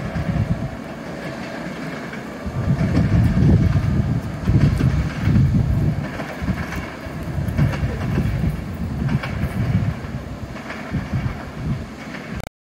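Passenger train pulling away from the station and receding down the line. A steady tone fades out in the first second or so, then loud, uneven low rumbling follows and ends abruptly near the end.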